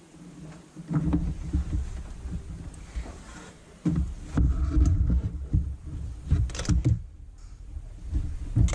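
Irregular low thumps, knocks and clicks of hands and tools working in an engine bay while a new serpentine belt is fitted over its pulleys and tensioner.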